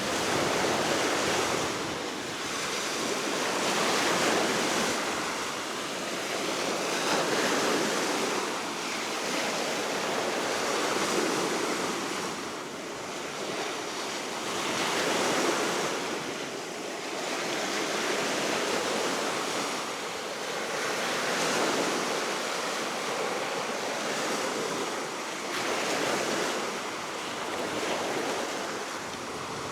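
Baltic Sea waves breaking in slow swells that rise and fall every three to four seconds, over a steady wind.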